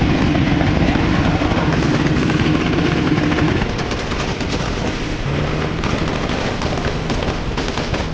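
Turbocharged car engine running on anti-lag, with a rapid, continuous crackle of exhaust pops and bangs over the engine note. The engine note drops a little about halfway through.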